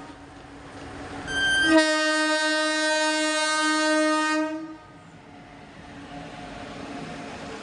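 Indian Railways express locomotive horn sounding one long blast of about three seconds, starting nearly two seconds in and cutting off sharply. After it, the steady rumble of the running train.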